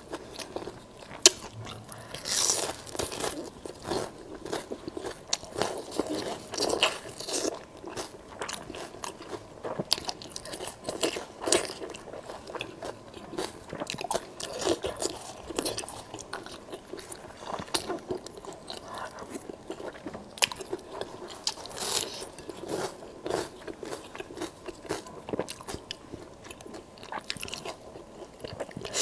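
Close-miked eating sounds: repeated bites into a red braised sausage-like piece of meat, with crunching and wet chewing in an irregular run of clicks and smacks, and one sharp click about a second in.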